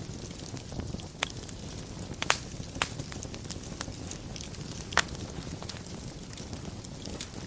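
Wood fire burning in a fireplace: a steady low rumble and hiss with sharp crackles and pops scattered through it, the loudest pop about five seconds in.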